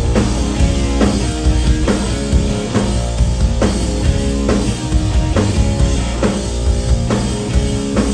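Live rock band playing with distorted electric guitar, bass and a drum kit. The drums keep a steady beat of about two hits a second, with no singing.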